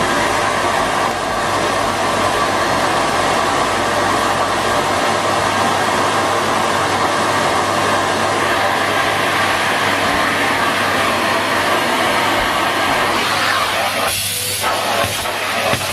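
Numatic Henry Pet cylinder vacuum cleaner running with a steady suction rush and hum. Near the end the sound turns uneven, with brief breaks and surges of high hiss as the airflow through the nozzle changes.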